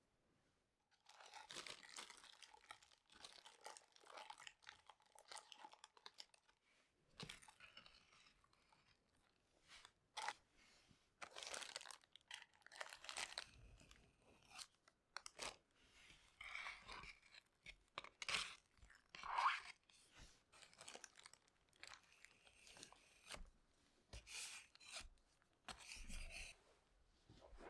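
Faint, irregular rustling and crinkling of material being handled by hand, with a few short sharp clicks and tearing-like scrapes.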